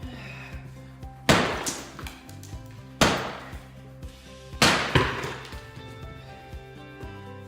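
Sledgehammer striking brick in heavy swings, about every second and a half, each blow followed by a rattle of falling broken brick. The third swing is followed a moment later by a second hit. Background music plays underneath.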